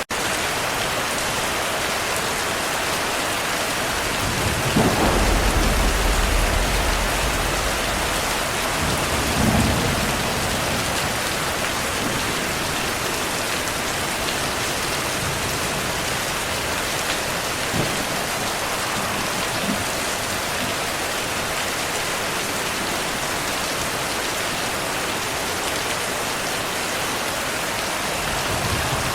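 Heavy, steady rain with thunder. A deep rumble of thunder comes in about five seconds in and lasts about three seconds, and a shorter peal follows near ten seconds in.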